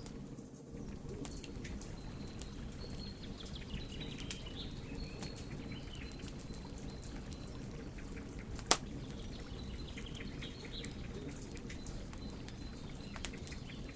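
Wood fire burning with a low steady rumble and scattered small crackles, and one loud sharp pop about nine seconds in.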